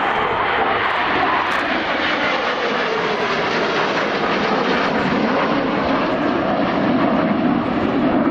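Panavia Tornado strike jets flying past, their twin RB199 turbofans making a loud, steady jet roar that slowly drops in pitch as they pass.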